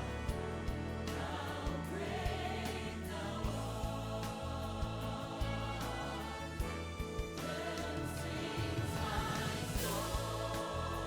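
Choir singing a gospel or Christian hymn with instrumental accompaniment.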